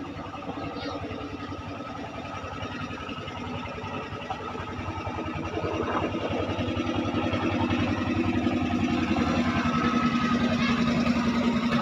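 Klotok riverboat engine running with a rapid, even beat, growing clearly louder about halfway through.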